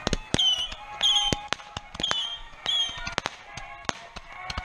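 Firecrackers and small fireworks going off in an irregular volley of sharp bangs and pops, several a second, with short high chirps between them in the first few seconds.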